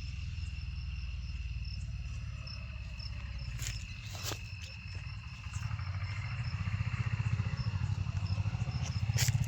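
Insects, crickets by their sound, trilling steadily on a high note, over a low rumble, with a few sharp clicks about four seconds in and again near the end.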